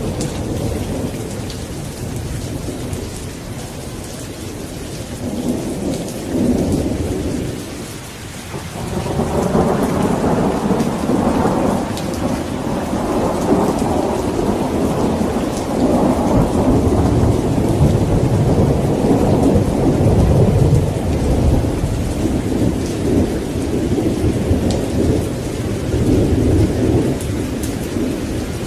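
Steady rain with rolling thunder. A long, deep rumble of thunder swells about a third of the way in and keeps rolling over the hiss of the rain.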